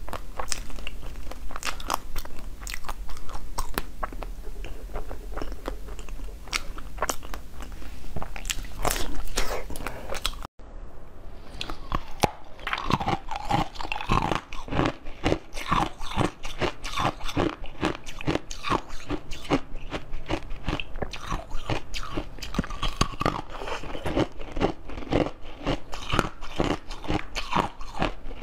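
A person biting into and chewing hard food, with many sharp snapping bites. After a momentary break about ten seconds in, a second eater chews in a quicker, steadier rhythm.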